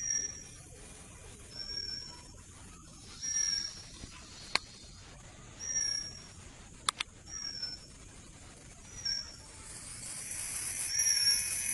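A bird calling over and over, a short high whistled note about every second and a half to two seconds. Two sharp clicks fall between the calls, and a hiss builds near the end.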